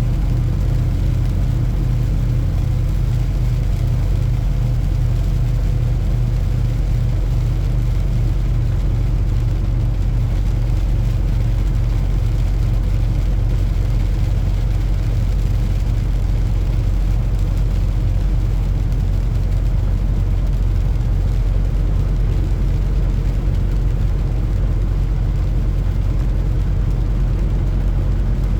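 Semi-truck diesel engine running steadily with a low, even drone that does not change in pitch.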